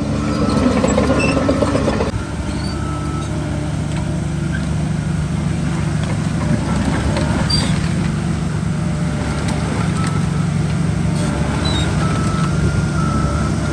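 Diesel engine of heavy earthmoving machinery running steadily, with a louder rough rumbling noise for about the first two seconds that then drops away. A faint, short high beep recurs at intervals.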